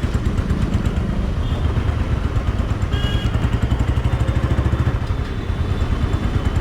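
Royal Enfield Thunderbird 350's single-cylinder engine running under way, a steady low rapid thump.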